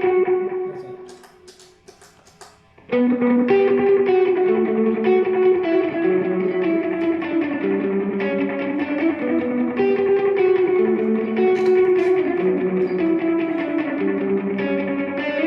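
Electric guitar played through a pedalboard with a delay effect: held notes ring out and fade away, with a few faint clicks in the short lull, then a slow melodic line of single notes starts again about three seconds in and carries on.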